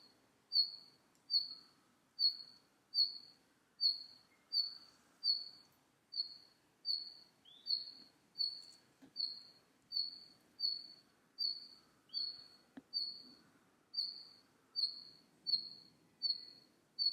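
Red-flanked bluetail calling, repeating a single short, high note at an even pace of about three notes every two seconds.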